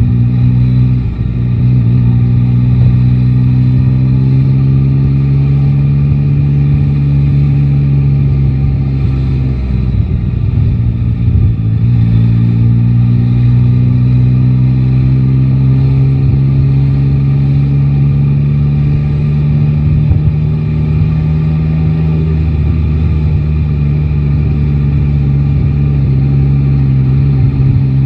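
Yamaha Tracer 9 GT's inline-three engine running at steady moderate revs in city riding, with brief dips about a second in and about ten seconds in. The revs then climb slowly and ease off again near the end.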